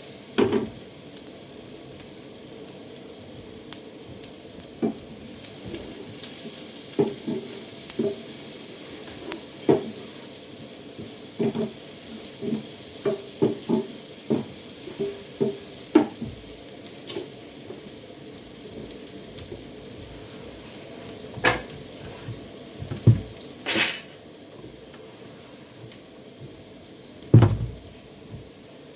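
Food frying and sizzling in a pot while a cooking utensil stirs it and knocks against the pot again and again. A sharper clack comes late on.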